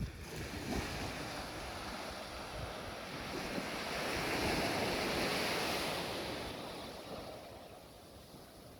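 Surf washing onto a beach: one wave's rush swells to a peak about halfway through and then fades away.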